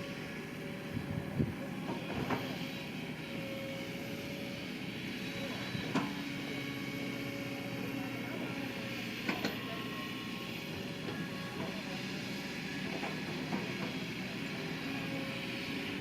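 Diesel engine of heavy earth-moving machinery running steadily, with three sharp knocks about 2, 6 and 9 seconds in.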